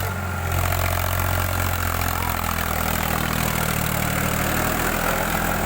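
Powertrac Euro 50 tractor's diesel engine running steadily at a low, even speed.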